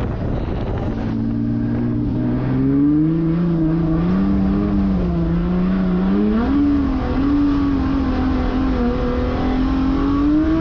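Toyota 1.5JZ straight-six drift car engine under throttle. It holds a steady note for about two seconds, then climbs and swings up and down in pitch as the throttle is worked, rising again near the end.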